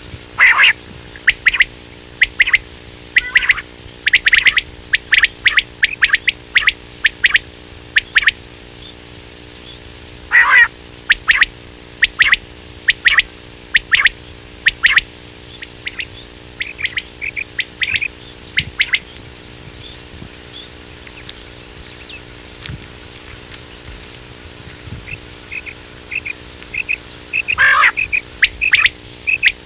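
Quail calls played as a hunting lure: bursts of short, sharp notes repeated in quick runs, with a softer stretch of chirping in the middle and loud calls again near the end.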